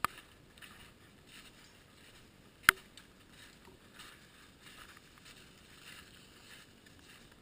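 Footsteps squelching through wet slush and melting ice, a soft crunch roughly every half to three-quarters of a second. A single sharp crack or knock stands out about two and a half seconds in.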